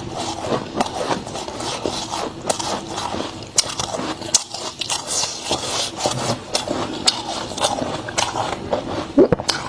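Thick freezer frost crunching and crackling, a dense run of small crackles broken by sharp snaps, the loudest near the end.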